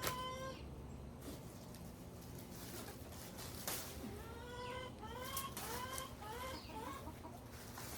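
Chickens clucking: one call at the start, then a quick run of about six short calls a few seconds in.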